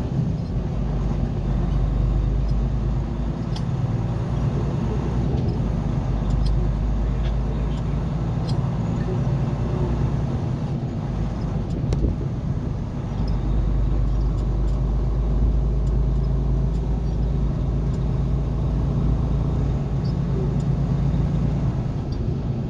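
Car engine and road noise while driving, a steady low rumble with occasional light clicks.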